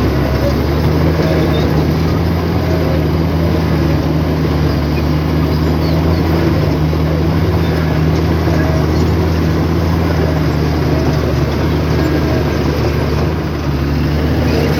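Heavy earthmoving machine's diesel engine running steadily, a loud low drone.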